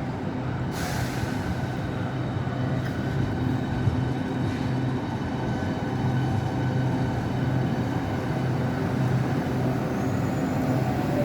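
Southeastern Class 395 high-speed electric train standing at the platform, with a steady electrical hum that grows slightly louder. A short hiss of air comes about a second in.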